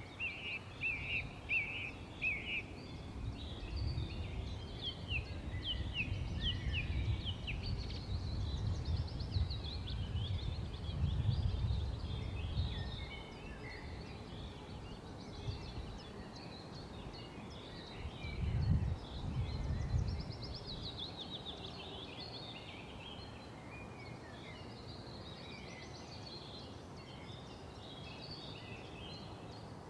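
Several wild birds singing and chirping, short trills and calls overlapping throughout. A low rumble comes and goes under them through the first half and swells briefly twice.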